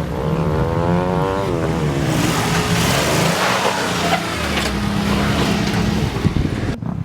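Off-road vehicle's engine revving up a trail obstacle: its pitch rises and falls in the first second or so over a steady lower engine note. Then a loud rushing noise joins it for several seconds. It cuts off abruptly near the end.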